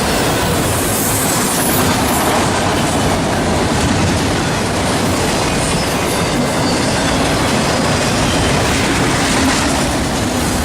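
Norfolk Southern train rolling past, its cars' wheels running steadily over the rails; loud and even throughout.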